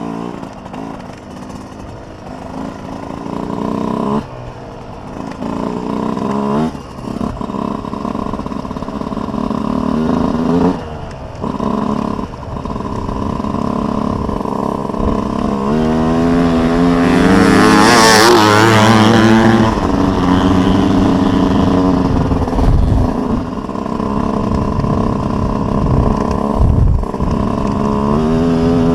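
Dirt bike engine revving and pulling through the gears as it rides around, its pitch climbing and dropping with brief dips when the throttle is closed. It gets louder and passes close by a little past halfway, where it is loudest.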